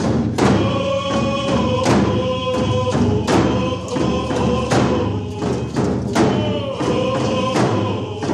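A group singing together in unison, held notes over a steady beat of hand drums, in the manner of a Coast Salish canoe family song.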